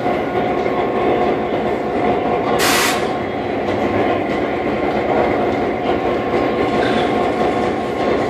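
Passenger train running along the track, a steady rumble of wheels and railcar noise with a faint steady tone. A brief hiss about two and a half seconds in.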